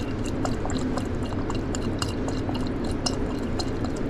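Worcestershire sauce pouring from a bottle into a mixing bowl, with quick irregular drips and ticks. Under it runs a steady low kitchen hum.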